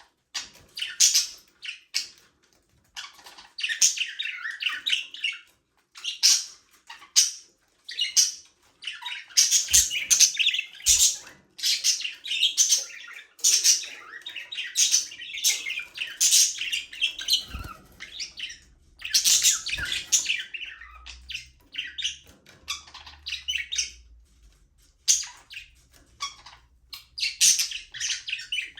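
Budgerigars chirping, warbling and squawking in a group, in bursts of fast high chatter with short pauses between them.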